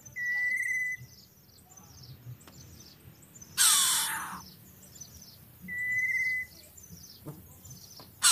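Birds calling: a fast run of short, high chirps throughout, a held whistle-like note twice, and two loud, harsh calls.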